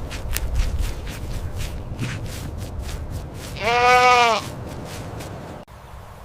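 A single bleat from a farm animal, about a second long, the pitch rising slightly then falling, about midway through. Light clicks and rustling come before it, and the sound cuts off abruptly near the end.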